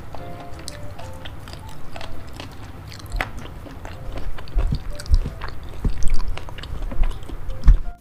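Close-miked chewing of spicy boneless chicken feet, with wet mouth clicks, growing louder from about halfway through with low thumps.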